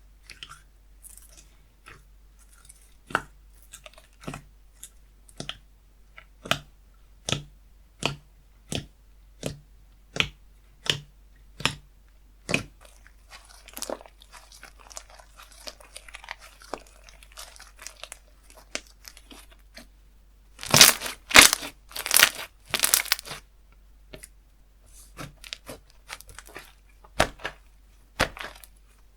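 Slime being played with by hand: a regular run of sticky popping clicks, a little under two a second, then a few seconds of louder crackling as it is stretched and torn, with a few scattered clicks after.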